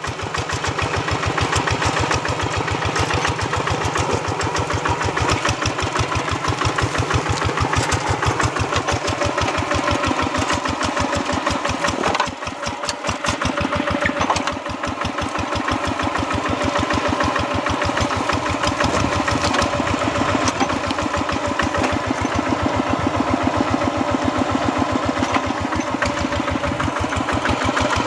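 Tractor engine chugging steadily in rapid, even beats, briefly dropping and turning uneven about twelve to fourteen seconds in.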